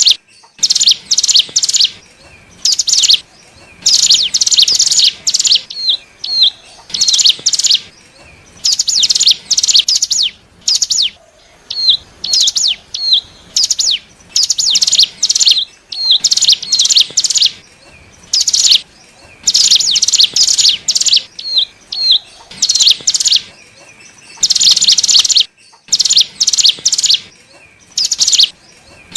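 Ciblek gunung (hill prinia) song used as a bird lure: loud bursts of rapid, high chirping, one after another with short gaps, and a few single short hooked notes between bursts.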